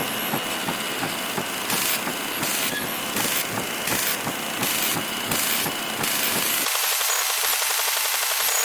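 Harsh static of a television with a poor signal: loud hiss with a rapid buzz pulsing through it. About two-thirds of the way in the low buzz drops out, leaving a thinner, higher hiss.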